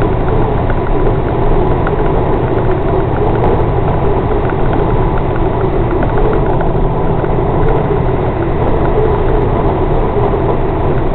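Scania bonneted truck's diesel engine running steadily at a constant speed, a deep even drone with no change in revs.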